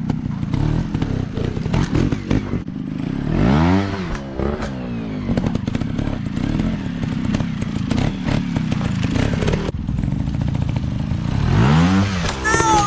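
Small dirt bike engines running with rattling and clattering, revved twice in quick rises and falls, once about four seconds in and again near the end. A high tone glides downward just before the end.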